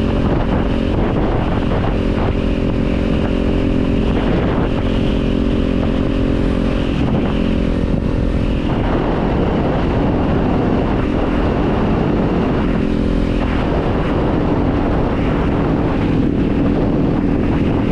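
Kawasaki Z400 parallel-twin motorcycle engine running on the move, its note shifting up and down several times as the rider works the throttle and gears.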